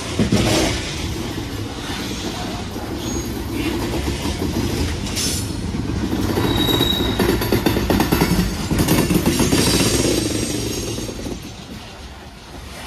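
Freight train of aluminium coal hopper cars rolling past close by: steel wheels rumbling and clacking on the rails, with a brief high wheel squeal about six and a half seconds in. The noise eases off near the end.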